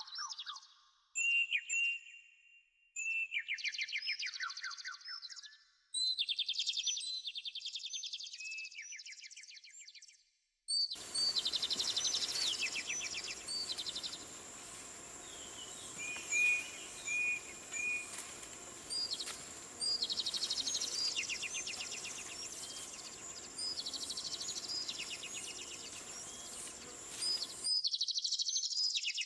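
Birdsong: short descending trilled phrases repeated again and again. About eleven seconds in, a steady background hiss with a thin high whine joins the birds and cuts off shortly before the end.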